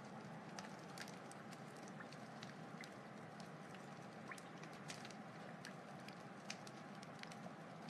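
Wood fire burning: a steady soft rush with frequent irregular crackles and pops from the burning logs, and a faint steady tone underneath.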